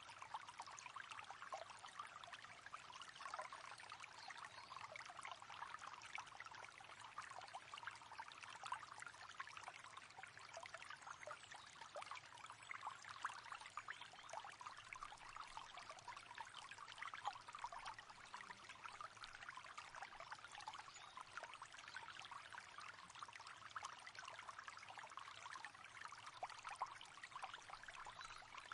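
Faint, steady babbling and trickling of a small river running over stones, with no break or change.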